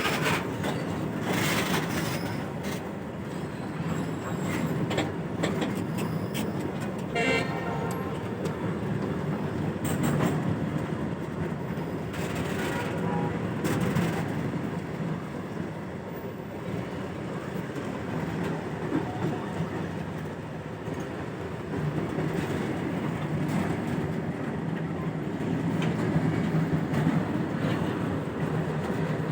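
WDG4 diesel-electric locomotive hauling a goods train, its engine running with a steady drone under the clatter of wagons over the rails. A short horn toot sounds about seven seconds in.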